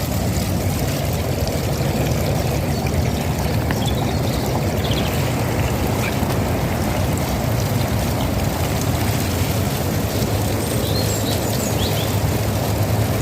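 Magic Mobility Extreme X8 power chair driving through mud: a steady low hum from its drive motors over the noise of the tyres, with a few faint bird chirps.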